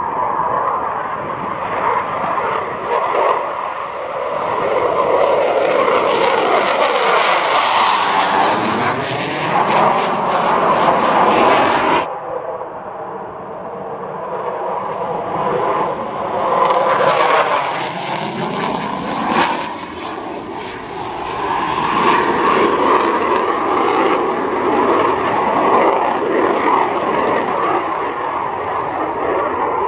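Jet noise from a Saab JAS 39 Gripen's single turbofan engine as the fighter makes low passes: loud and rising and falling as it goes by, cutting off sharply about twelve seconds in, then building to a second loud pass a few seconds later before settling to a steady, more distant noise.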